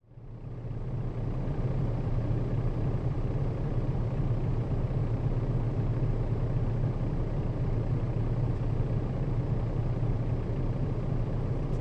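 Nissan Diesel KL-RA552RBN city bus's diesel engine idling steadily, a low even hum that fades in over the first second.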